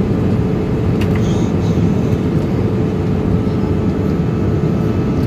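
Steady roar of a jet airliner's engines and rushing air heard inside the passenger cabin, with a constant low hum running through it.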